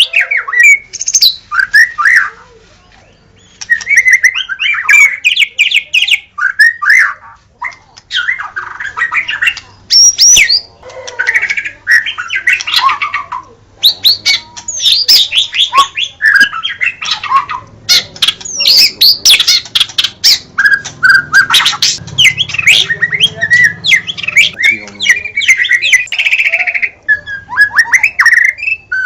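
White-rumped shama (murai batu) singing: a long run of loud, varied whistled phrases with quick up-and-down pitch glides and sharp clicking notes, broken by a brief pause about three seconds in. A faint steady low hum sits underneath.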